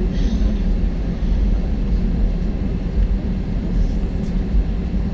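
Jet airliner cabin noise: a steady low rumble of the engines and airflow heard from inside the passenger cabin during the takeoff phase.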